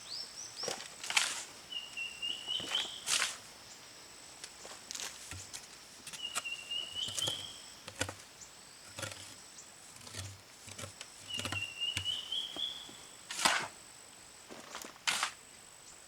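A bird repeating a short rising trilled call three times, about five seconds apart, over a faint steady high-pitched whine, with sharp knocks scattered through, a loud one near the start and another pair near the end.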